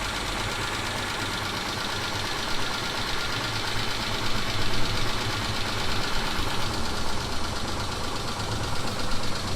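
Mitsubishi 6G72 V6 engine idling cold with a steady knock coming from the engine. The knock appears only when the engine is cold and dies away after three to four minutes of running; the owner says it does not sound like the hydraulic lifters.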